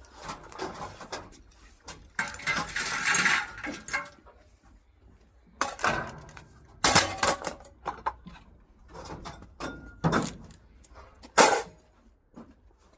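Scrap metal and junk being handled and dropped while a truck is unloaded: a couple of seconds of rattling and scraping, then several separate clanks and knocks.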